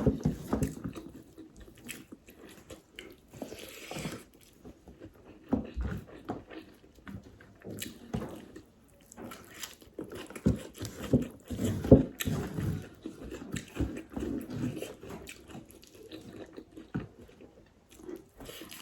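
Close-miked eating: irregular wet chewing, biting and lip-smacking of a mouthful of rice and fish curry, with a few louder crunches.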